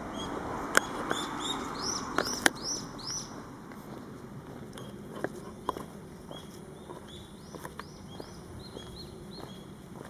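A small bird calling a quick series of short, high, arched notes, loudest in the first three seconds and repeating more faintly in the second half, over a steady outdoor hiss with a few sharp clicks.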